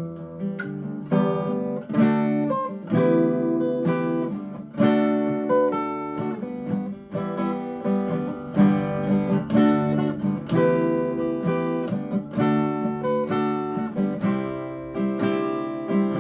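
Acoustic guitar in open G tuning playing a strummed and picked instrumental riff, with chords struck roughly once or twice a second and left ringing.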